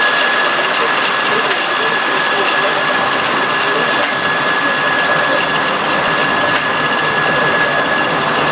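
Sawmill machinery running steadily, with a constant high-pitched whine over the mechanical noise.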